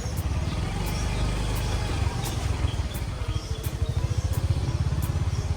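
Motorbike engine running during a ride, with a heavy, fluttering wind rumble on the microphone.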